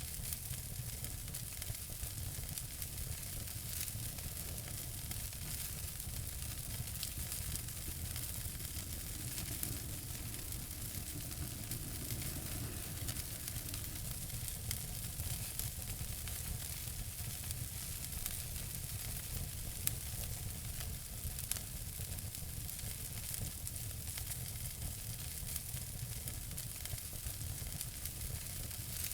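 Wood fire in a fireplace crackling steadily: a constant hiss with many small pops and crackles, and a couple of sharper pops about two-thirds of the way through.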